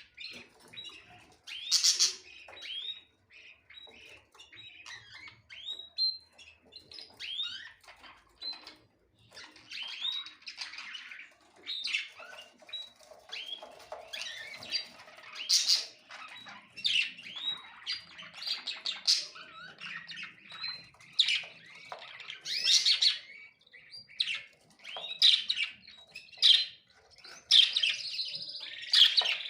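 Several small birds chirping and twittering in quick, short calls that overlap densely, becoming a more continuous trilling near the end.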